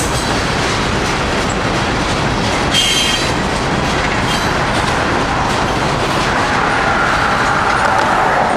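Cars of a long CSX freight train rolling past: a steady, loud rumble of steel wheels on rail with clickety-clack, a sharp clank about three seconds in, and a thin wheel squeal setting in over the last couple of seconds.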